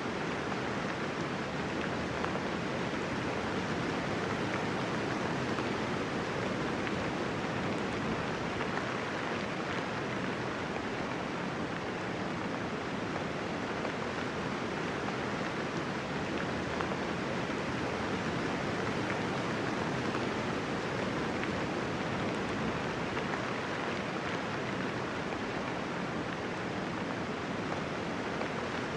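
Steady, even rainfall with no thunder, a dense unbroken hiss of drops.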